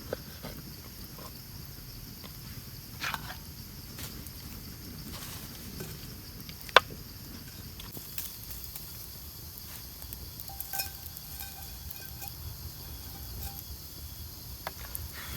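Steady high buzzing of forest insects, with scattered sharp clicks and knocks of work at the campsite and one loud crack about seven seconds in.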